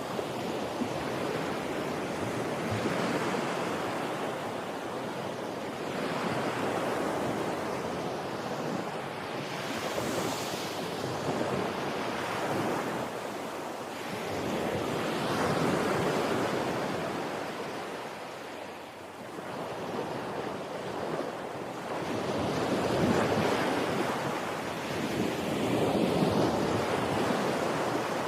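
Sea waves breaking and washing onto the shore in continuous surf, swelling and easing every few seconds, with some wind on the microphone.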